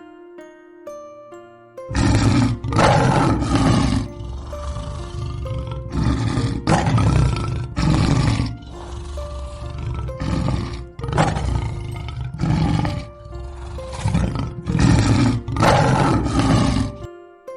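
Lion roaring repeatedly, a long string of loud roars with short gaps between them, over background music; a short musical jingle plays just before the roaring starts.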